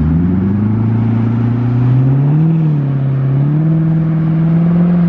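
A car engine pulling away under throttle. Its pitch climbs quickly, then holds at high revs with two small further rises.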